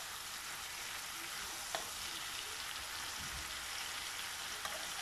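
Courgette and tomato sizzling steadily in a hot frying pan, with a couple of light clicks from the spatula against the pan.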